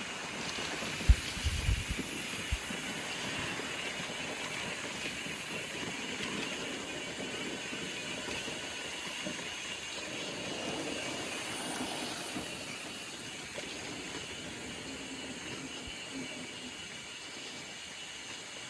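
Mountain bike rolling along a dirt trail: a steady rushing noise, with a few low knocks from bumps between one and three seconds in.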